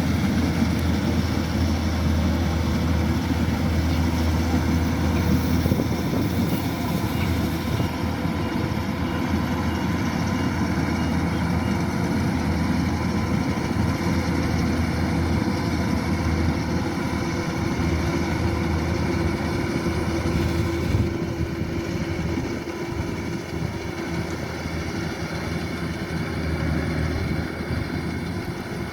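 Kubota DC-105X rice combine harvester running steadily as it harvests, its diesel engine droning with a low hum; it gets a little quieter for the last several seconds.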